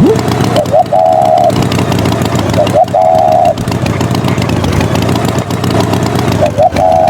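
Engine running steadily with a dense low rumble. A short rising chirp and a wavering held note repeat about every two seconds.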